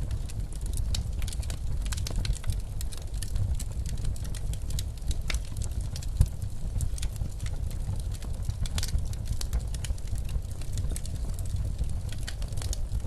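Wood fire crackling with frequent sharp pops, one louder pop about six seconds in, over a steady low rumble of blizzard wind.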